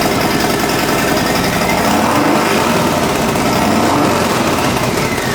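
Harley-Davidson Sport Glide's Milwaukee-Eight V-twin running through Tab Performance slip-on mufflers with Zombie Baffles: a loud, steady, rapid exhaust beat.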